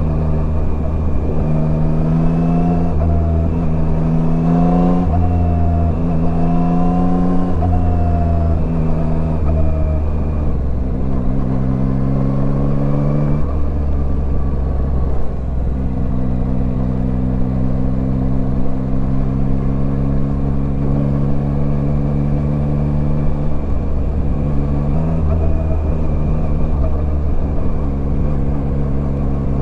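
Yamaha Tracer 9's inline-three engine running under way, its pitch rising and falling with the throttle. It steps down in pitch a few times around the middle, then holds a steady cruising note for several seconds.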